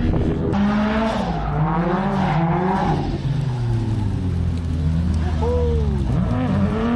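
Go-kart engines revving up and down on the track as karts spin out, the pitch rising and falling again and again over a steady low drone, with some tyre squeal.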